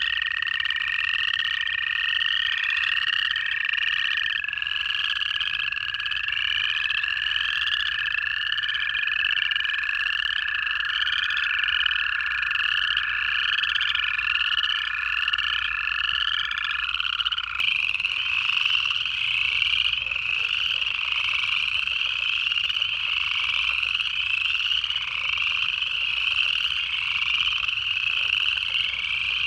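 Pond chorus of upland chorus frogs, a steady run of short ascending trills repeated about once a second. Overlapping long, even-pitched trills of American toads carry through most of it and stop about two-thirds of the way in.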